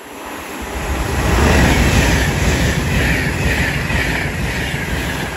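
Train running past on the rails, building to a loud rumble over the first second or so, with a wavering high wheel-on-rail whine over the rumble.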